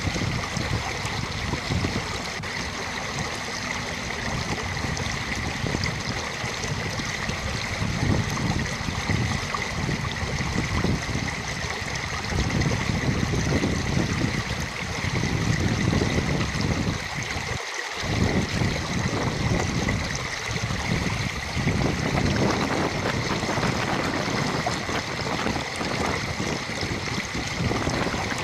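Steady rushing of flowing water, like a stream, with wind gusting against the microphone.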